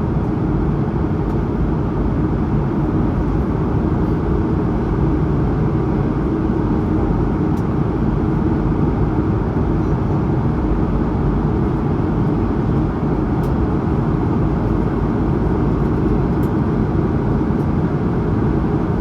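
Steady cabin noise of an Airbus A220-100 in flight: the low rumble of its Pratt & Whitney PW1500G geared turbofan engines and the rush of air past the fuselage, heard from inside the cabin, with a faint steady hum.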